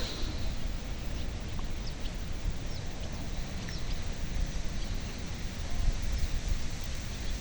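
Wind buffeting the microphone in an uneven low rumble, with a few faint, short bird chirps a few seconds in.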